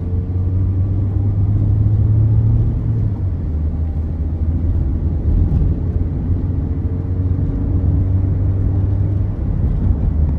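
Toyota Corolla GLi running with a steady low rumble.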